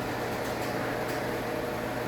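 Old screw-drive garage door opener running, a steady motor hum as it drives the door along its screw rail. It is loud despite fresh lubrication.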